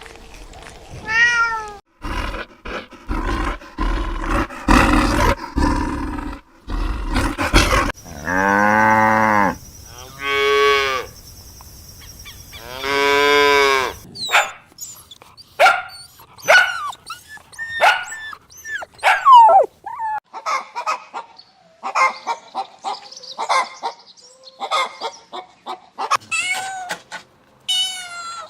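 A run of different animal calls. It starts with a meow, then clattering noise for a few seconds, then three long, low calls. After that come many short, high squeaks and chirps, and two meows near the end.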